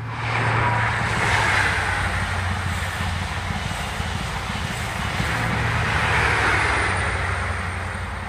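Express passenger train passing at speed: a dense rush of wheel and air noise over a steady low hum. It swells twice, about a second and a half in and again around six seconds in.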